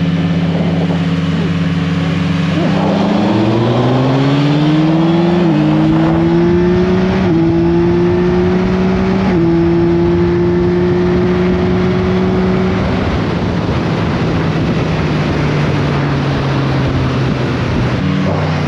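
Yamaha MT-series sport motorcycle engine pulling hard from a steady note about three seconds in, its pitch climbing and dropping at three upshifts around five, seven and nine seconds, then holding a steady cruise before the revs fall away as it slows.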